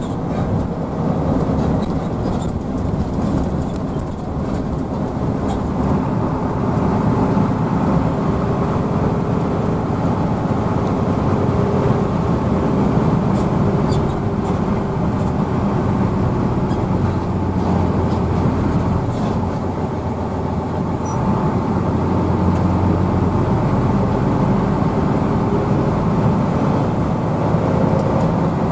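Hino AK bus's diesel engine running steadily under way, with a continuous low rumble of engine and road noise.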